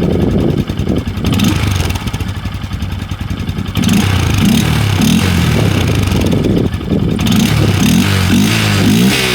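2023 Honda Grom's single-cylinder four-stroke engine through its stock exhaust, running at idle and then revved in short blips from about four seconds in, with quick rises and falls in pitch near the end.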